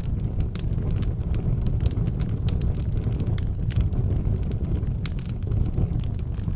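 Wood fire burning in an outdoor fireplace: a steady low rumble under frequent sharp crackles and pops.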